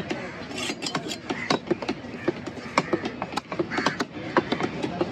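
Fish cutter's knife knocking and scraping on a cutting block in quick, irregular strokes, over background chatter.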